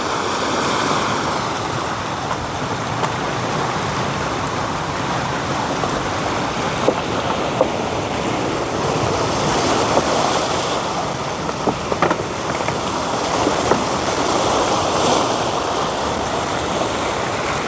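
Sea waves washing on the shore, a steady rush that swells and eases, with a few light knocks.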